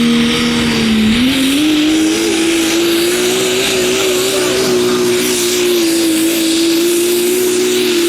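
Pulling tractor's engine running loud under full load, its pitch rising about a second in and then holding steady as it pulls the sled.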